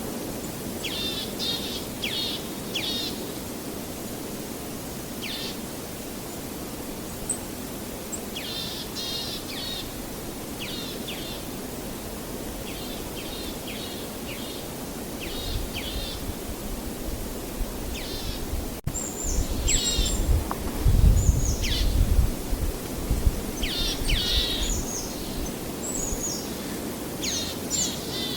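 Small songbirds chirping in short, repeated phrases over a steady wash of waves. About halfway through a deep rumble swells up; it is loudest about three-quarters of the way in, then eases.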